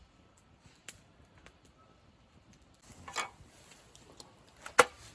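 A few faint clicks, a short scrape about three seconds in, then two sharp knocks of hard objects close together near the end.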